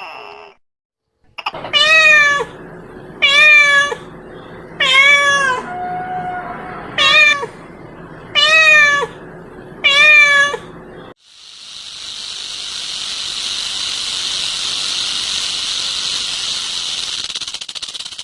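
A domestic cat meowing six times, each meow about half a second long with a rise and fall in pitch. About eleven seconds in, the meowing stops and a steady high hiss fades in and holds to the end.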